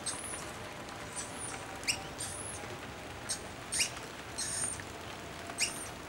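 Small birds giving short, high-pitched squeaky calls, about one a second, over a steady hiss of rain.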